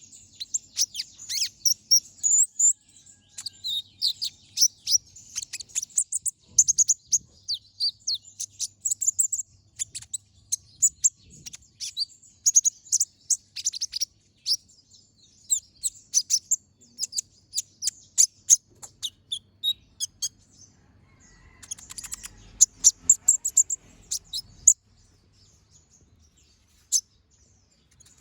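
Olive-backed sunbird (kolibri ninja) singing a fast, sharp, high-pitched run of chirps and trills, with a short pause after 20 s and a stop near the end.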